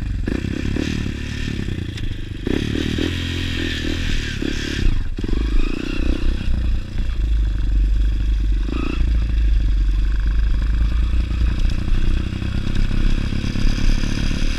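Honda XR 200 single-cylinder four-stroke dirt bike engine running at low speed off-road, its note shifting in pitch, with the bike clattering and rattling over rough ground.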